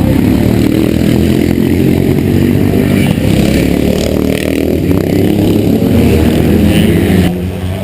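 A motorcycle engine running loudly and close by, then dropping away sharply about seven seconds in.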